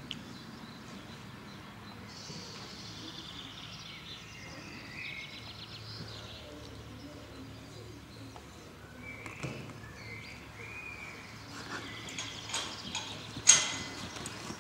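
Small birds chirping and trilling in the background, then a few knocks near the end, the loudest a single sharp one.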